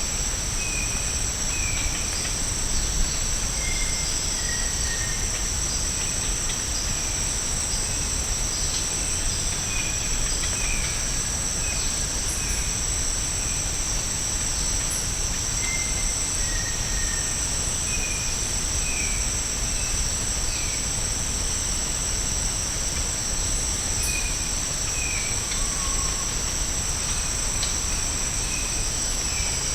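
Steady, high-pitched drone of a tropical insect chorus, holding two constant pitches, with short bird chirps repeated on and off throughout.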